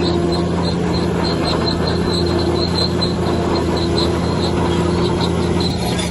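Bulldozer running, with a steady engine hum under a high squeak that repeats several times a second.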